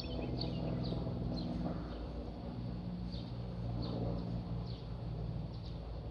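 A steady engine drone, typical of an aircraft passing, with a bird chirping over it in short, repeated falling notes.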